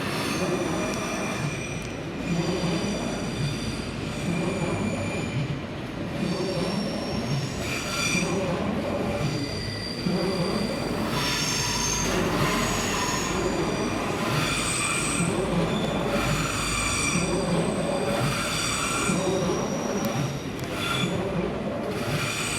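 Regional express electric train arriving slowly, its wheels squealing in high, shifting tones over the station throat's curves and points, again and again, above a steady low running rumble.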